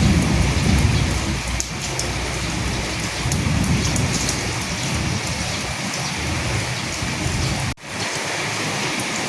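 Steady heavy rain falling, with fine drop ticks through it and a low rumble in the first half that fades away. The sound cuts out for an instant nearly eight seconds in, then the rain resumes.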